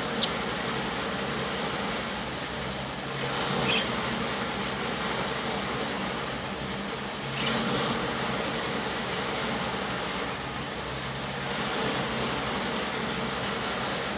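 A steady rushing noise with gentle swells, with a click right at the start and a couple of brief budgie chirps, one about four seconds in and another about halfway through.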